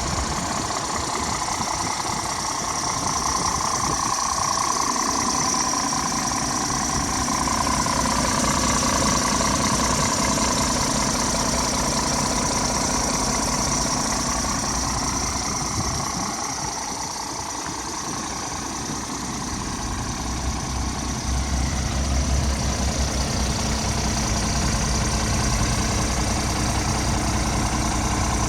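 Scania R450 Euro 6 tractor unit's 13-litre six-cylinder diesel idling steadily. The low rumble fades a little past the middle, then comes back stronger.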